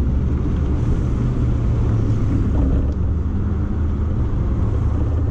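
Toyota MR2's turbocharged 3S-GTE inline-four running at a steady cruise, heard from inside the cabin mixed with road noise. The engine note holds at an even pitch with no shifts or revving.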